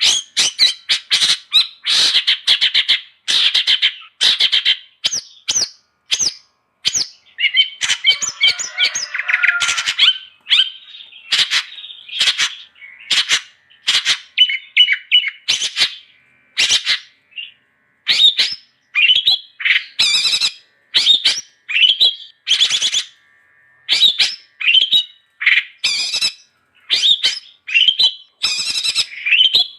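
Long-tailed shrike singing in full voice: a fast, unbroken string of short, harsh, scratchy notes and chatters, broken only by a few brief pauses.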